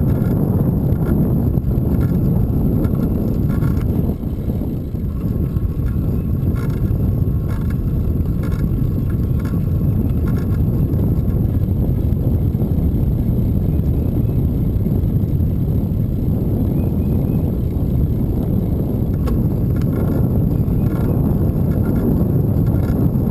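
Steady low rumble of wind buffeting the microphone while riding a bike, mixed with road noise and faint clicks. The rumble drops briefly about four seconds in.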